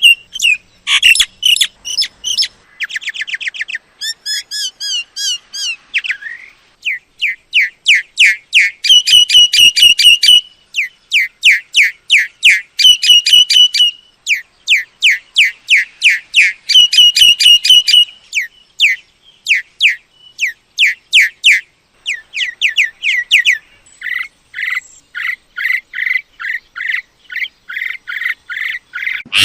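Myna calling: long runs of rapid, sharp, whistled chirps, each note sweeping downward, in bouts broken by short pauses.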